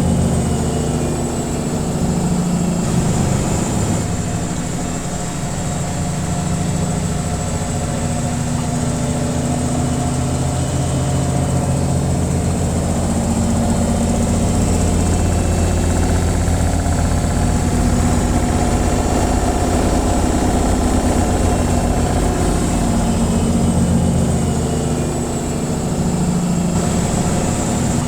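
Washing machine on its spin cycle: a steady low motor and drum hum over a rushing noise, swelling and easing slightly in level.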